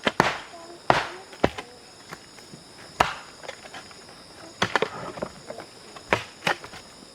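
Irregular sharp knocks, about ten of them at uneven intervals with a quick run of three or four just after the middle, over a steady high-pitched drone of insects.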